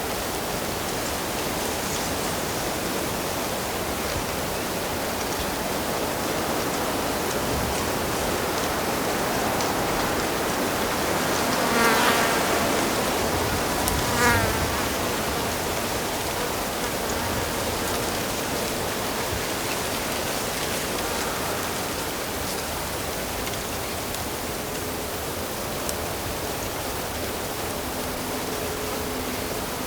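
Steady rush of flowing stream water. Around the middle, a buzzing insect passes close twice, each time for about a second.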